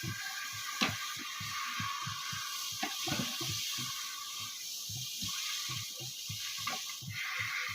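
Water running with a steady hiss, with repeated soft knocks and a few sharper clicks as the tent is handled and washed.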